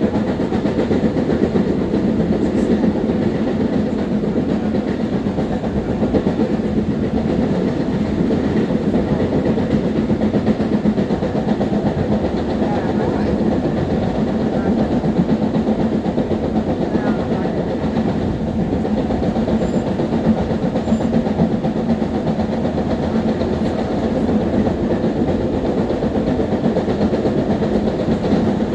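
Long Island Rail Road M3 electric multiple-unit train running steadily, heard from on board: a continuous rumble of wheels on rail with a steady motor hum.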